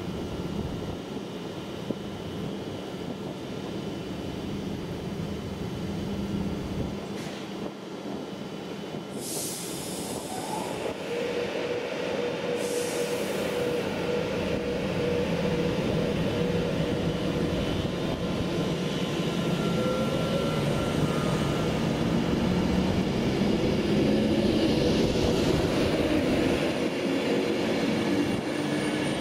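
A DB Cargo train approaching and growing steadily louder, with a dense rumble and drawn-out tones, some sliding in pitch, and two short hisses about nine and twelve seconds in.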